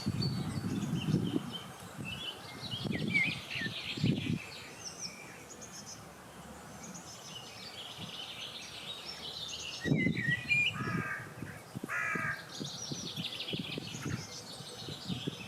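Several birds singing and calling in overlapping chirps and trills, with a few harsher repeated calls about two thirds of the way through. Gusts of wind rumble on the microphone at the start, twice a few seconds in and again about two thirds of the way through.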